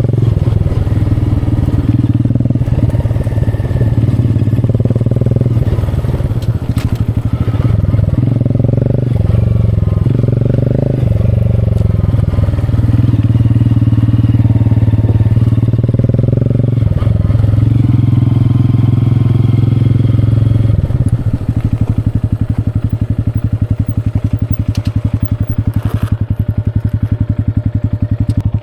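Small single-cylinder motorcycle engine, likely a Honda Grom 125, running under way with the throttle rising and easing. About two-thirds of the way in it drops back to an even, fast-pulsing idle.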